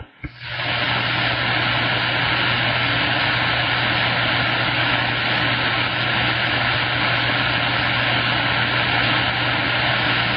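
CB radio receiver hissing with steady band static after a transmission is unkeyed, a low steady hum underneath. The static starts abruptly after a short drop-out.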